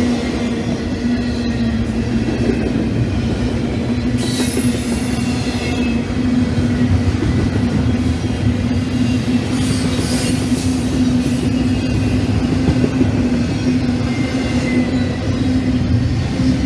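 Norfolk Southern double-stack container train's well cars rolling past close by: a steady rumble of steel wheels on rail with a constant low hum. Brief high wheel squeals come about four seconds in and again around ten seconds.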